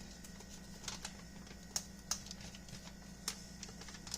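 A handful of sharp, light clicks and taps, spaced unevenly, over a steady low hum.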